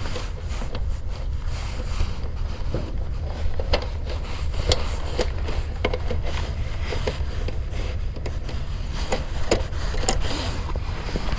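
Scattered light clicks and knocks of hand work on a heat pump's defrost control wiring, over a steady low rumble.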